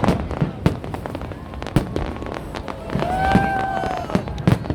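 Fireworks going off: a rapid string of sharp bangs and crackles, with a steady whistle-like tone lasting about a second past the middle.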